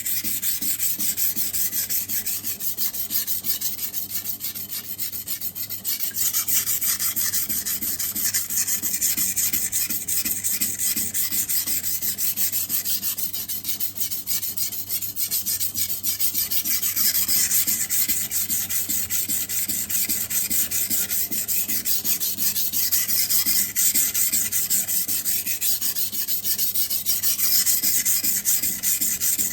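Knife blade stroked steadily back and forth across a 400-grit sintered diamond sharpening stone, a continuous gritty scraping. The coarse stone is grinding a dull edge to raise a burr.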